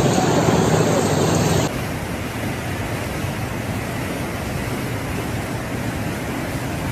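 Steady rushing noise of fast-flowing floodwater. It takes over after an abrupt cut about a second and a half in, which ends a louder engine drone.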